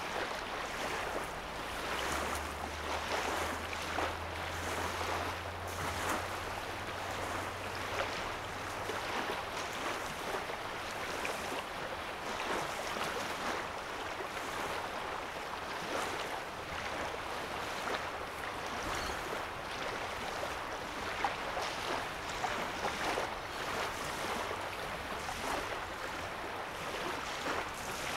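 Small waves lapping at a lake shoreline: a steady wash of water broken by many small splashes. A low steady hum comes in about two seconds in and fades out about nine seconds in.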